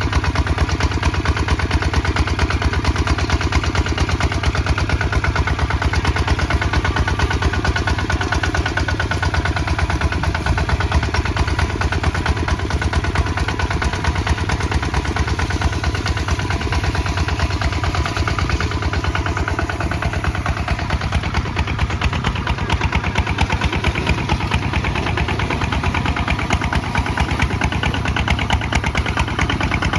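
Kubota ZT155 DI single-cylinder diesel engine running steadily with an even, rapid beat.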